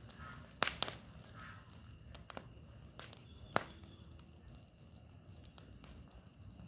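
Bonfire crackling: irregular sharp pops and snaps of burning wood over a faint hiss, with the loudest pops about half a second in and near the middle.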